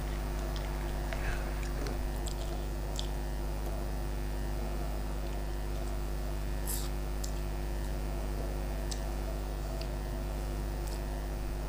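A person eating with her fingers, chewing and licking her fingers, with scattered small wet mouth clicks over a steady low hum.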